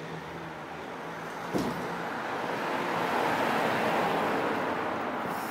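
A car driving past, its road noise swelling to a peak about halfway through and then fading. A single knock about a second and a half in.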